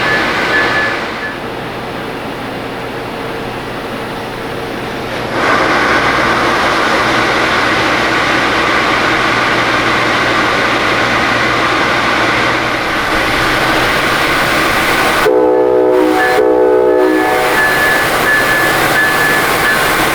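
Amtrak passenger train running past with a steady rushing rumble, its locomotive horn sounding two short blasts about fifteen seconds in.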